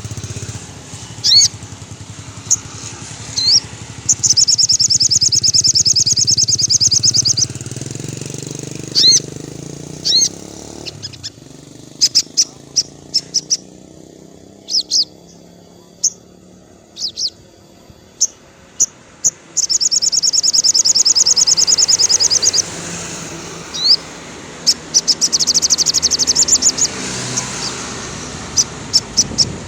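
Sogon bird singing: long, rapid high trills of a few seconds each, broken by short sharp upward chirps and clicks. A low engine hum sounds under the first third and fades out.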